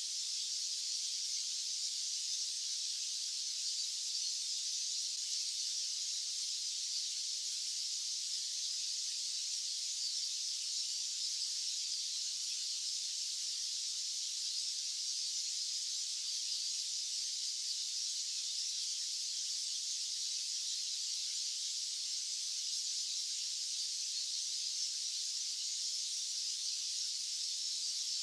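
Steady, unbroken hiss of a white-noise track, high-pitched, with no low end.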